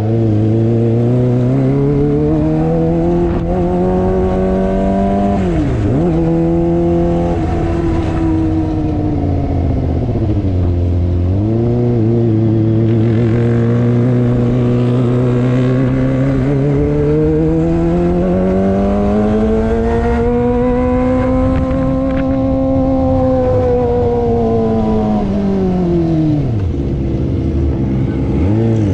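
Kawasaki ZX25R's 250cc inline-four with an aftermarket racing exhaust, heard while riding and revving up through the gears. The note climbs and drops sharply at shifts about six and eleven seconds in. It then makes one long rise and fall and drops again near the end.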